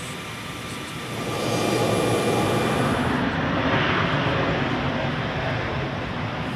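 Helicopter rotor and engine running, growing louder about a second in and then staying loud.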